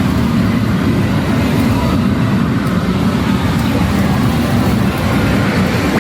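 Steady, loud din of a pachislot parlour: many machines running together in one dense, unbroken wash of noise.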